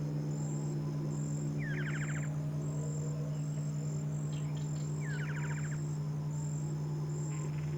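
Great antshrike giving two short rattling trills, each a rising note running into a fast series of notes. Under them an insect chirps in steady pulses about twice a second, over a steady low hum.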